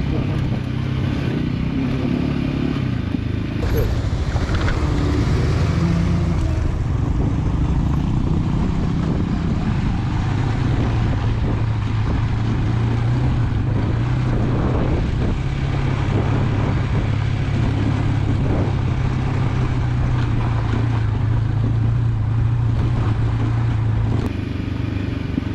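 Motorcycle engine running under way on a dirt road, with wind and road noise. The engine note shifts during the first several seconds, then holds steady through most of the rest.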